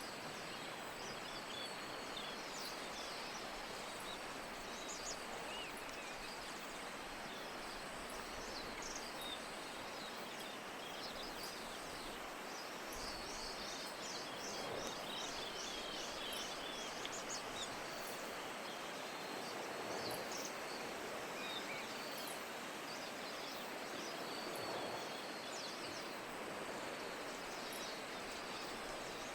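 Steady hiss of falling rain, with small birds giving short, high chirps throughout. About halfway through comes a quick run of repeated notes.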